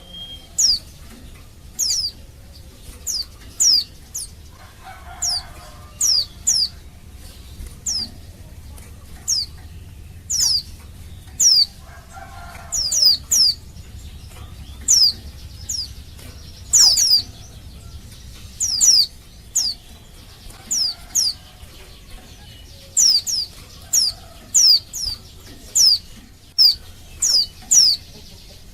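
Female white-eye (pleci) giving its calling notes: short, high, downward-sliding chirps, singly or in quick pairs and triples, repeated about once or twice a second. This is a female calling for a male, used as a lure to make male pleci answer and sing.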